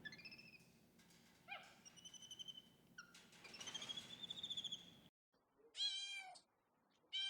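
A monkey giving a series of high, squeaky trilled calls for about five seconds, the last one long and rising. After a short break a cat meows once, about six seconds in, and starts another meow at the very end.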